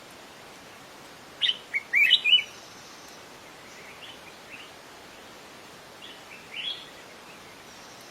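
Wild songbird chirping: a quick burst of loud, high chirps about a second and a half in, then softer, scattered chirps twice later, over a steady hiss.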